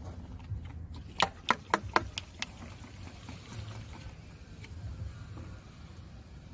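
A sprayer applying acid coil-cleaning chemical to an AC condenser coil: a quick run of about six sharp clicks a second or so in, then a faint, even spray.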